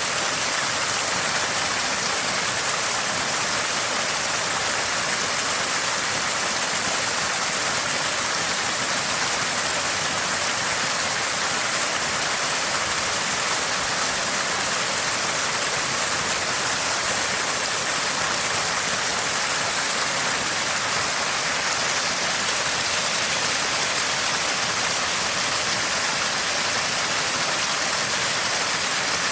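Water gushing from a small spring, with an even, unchanging gurgle and splash.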